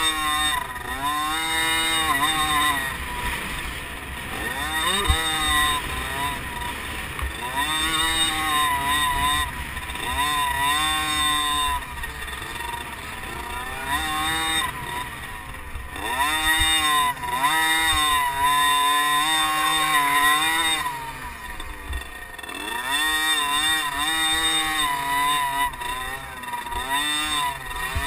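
Liquid-cooled 50cc two-stroke motocross bike engines revving up and falling back again and again, a rising whine on each burst of throttle with a drop at each shift or corner. At times a second bike's engine overlaps the first.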